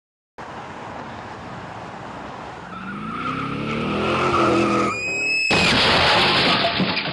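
A car engine revs up with rising pitch. Its tyres squeal briefly about five seconds in, and then a loud crash follows.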